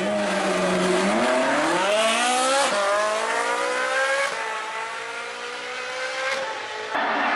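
Ferrari 458's 4.5-litre V8 accelerating hard through the gears: its pitch climbs, falls back at a quick upshift about two and a half seconds in, climbs again and shifts once more about four seconds in, then pulls on more quietly. Near the end the sound changes abruptly to a rougher, noisier engine sound.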